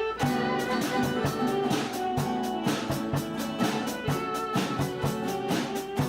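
A band playing an upbeat instrumental introduction, with a drum kit keeping a steady beat of about three to four strokes a second under sustained melodic instrument lines.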